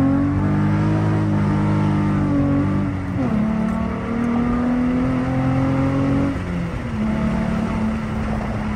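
Infiniti G35 with a manual gearbox accelerating, heard from inside the cabin. The engine note rises, drops at an upshift about three seconds in, climbs again, and drops at a second upshift after about six seconds, then holds steady.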